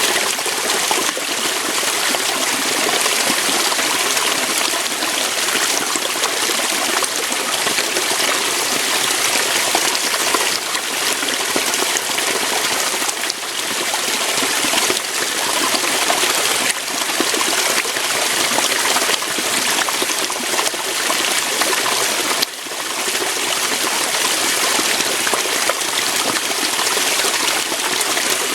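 Waterfall: water pouring steadily over rocks, a continuous full rushing with a brief dip in level about three-quarters of the way through.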